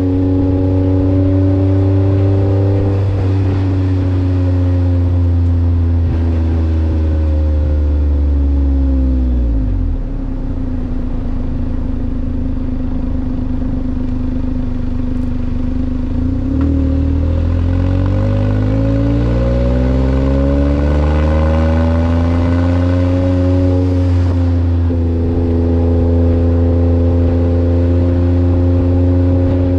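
Kei truck's 660 cc three-cylinder engine heard through an aftermarket muffler. The engine is held at steady revs, slows down over a few seconds and stays low for several seconds. It then climbs back up over several seconds and holds steady again.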